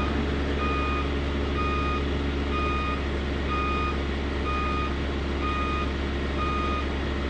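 A roller brake tester running under a truck's axle with a steady low hum, while a warning beeper sounds a short high beep about once a second.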